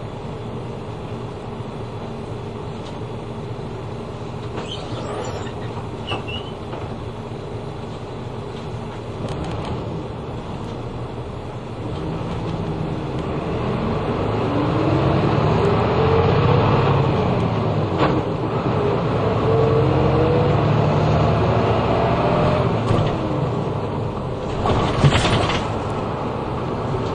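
Route bus heard from inside the cabin while under way: the engine runs steadily, then gets louder about twelve seconds in, its pitch rising and falling as the bus speeds up. A brief hiss comes near the end.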